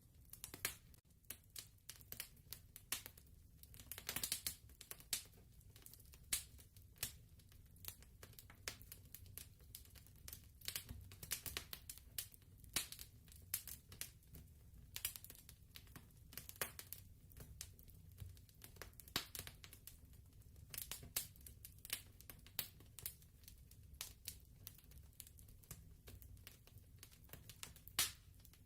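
Wood fire crackling quietly, with irregular small pops and snaps over a low rumble, a burst of louder crackles about four seconds in and one sharp pop near the end.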